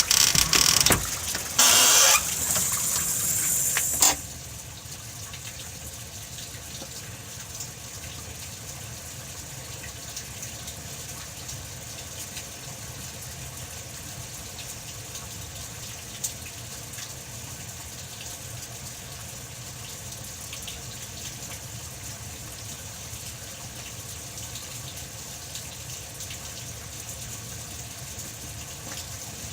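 Steady hiss of falling rain. It follows about four seconds of louder, rougher noise at the start.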